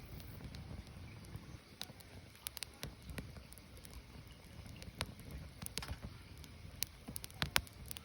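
Firewood burning: irregular sharp crackles and pops over a low, steady noise from the fire, with a few louder pops between about five and eight seconds in.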